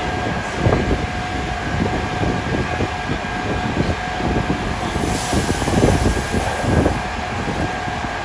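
Steady engine and street noise with a constant whine in two pitches, overlaid with gusty wind buffeting the microphone in high winds.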